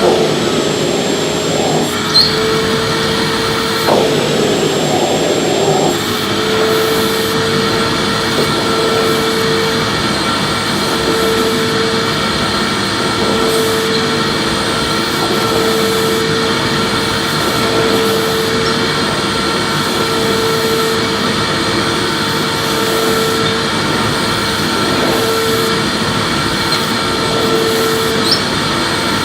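Electric vacuum cleaner running steadily while being pushed back and forth, its motor hum wavering at a regular rhythm about every two seconds, with a couple of light knocks a few seconds in.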